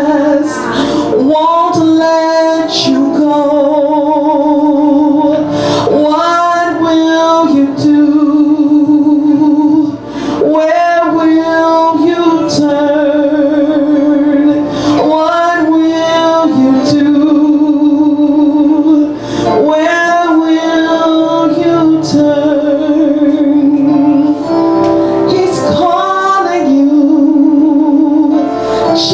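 Music: a woman singing a slow song, holding long notes with vibrato and breaking between phrases every few seconds.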